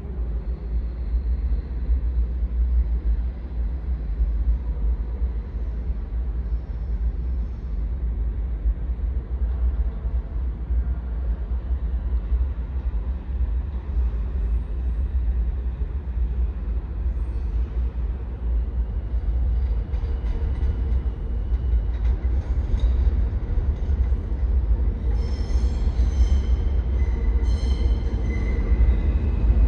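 R160 subway car running, heard from on board: a steady low rumble with rail noise. Several short high-pitched tones sound near the end.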